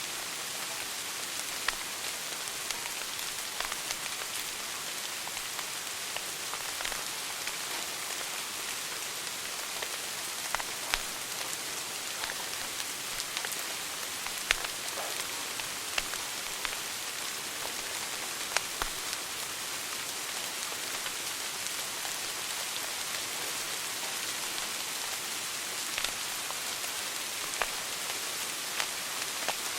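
Wood fire burning in a fireplace: a steady hiss with irregular sharp crackles and pops, a few of them louder than the rest.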